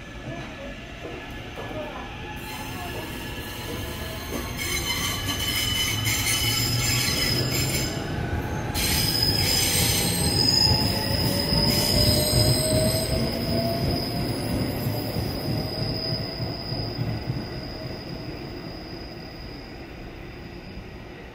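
JR West 681/683-series limited express electric train pulling out and accelerating away, its motors giving off rising whines over the rumble of the wheels, with a steady high squeal. The sound swells as the cars go by and then fades as the train draws off.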